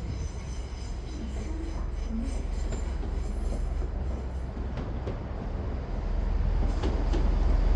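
Great Western Railway Class 166 diesel multiple unit running along the platform, a steady low rumble of engines and wheels that grows louder near the end.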